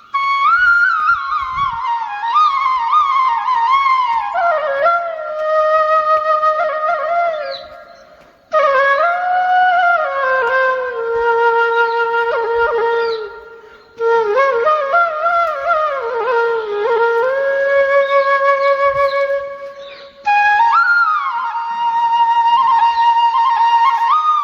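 Background music of a solo flute playing an ornamented, gliding melody, in phrases that break off abruptly three times.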